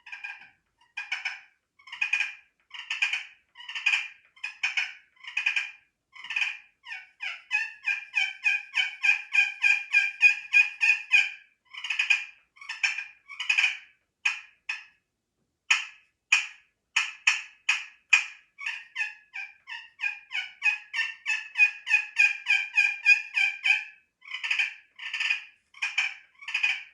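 Small wooden-topped purr pot turkey call, a friction pot call, played by hand with a striker, imitating turkey sounds. Separate short notes at a slow, even pace run into two long, fast, rolling runs of purring, one about eight seconds in and one about twenty seconds in.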